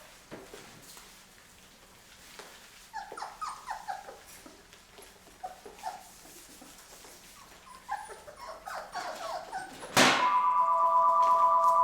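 Three-week-old Labrador puppies whimpering and yipping in short, high calls, in two bouts. Near the end a sharp click is followed by a loud, steady electronic tone of several pitches at once, lasting about two seconds.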